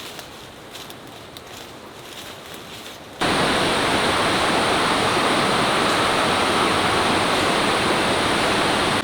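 Faint rustling at first, then about three seconds in a sudden switch to loud, steady rushing river water.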